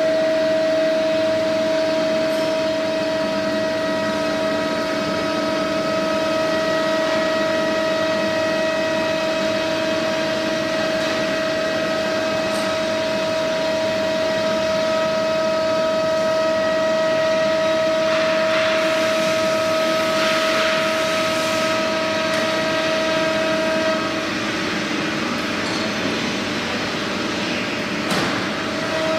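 CNC router's 3.5 kW air-cooled spindle running at speed while cutting fiber board: a steady high whine with overtones. A rougher hiss of cutting comes in about two-thirds of the way through, and near the end the whine drops away briefly before returning.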